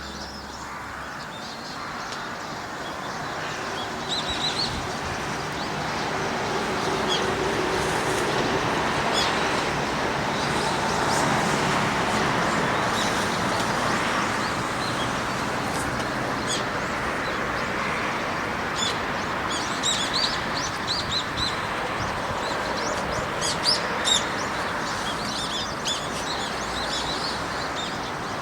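Small wild birds chirping in short, high calls, thickest in the second half, over a steady rushing noise.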